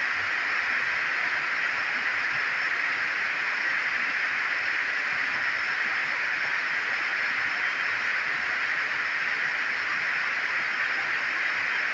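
Heavy tropical rain falling, a steady, even hiss.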